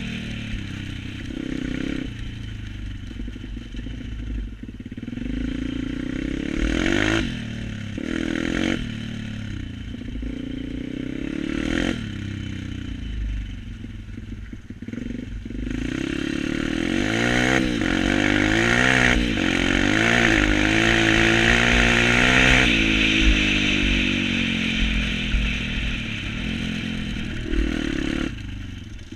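Pit bike engine running and being revved, its pitch rising and falling over and over. It climbs to its loudest, highest run about two-thirds of the way through, then drops suddenly and settles lower near the end.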